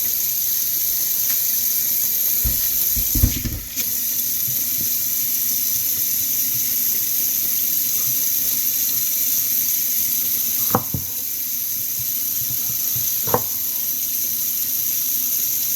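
A steady hiss of water, with a dull thump about three seconds in and two sharp knocks near the end.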